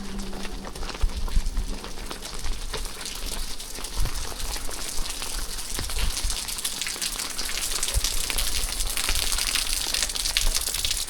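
Rain falling: a steady hiss with the patter of many drops, growing louder near the end, with a few low thuds.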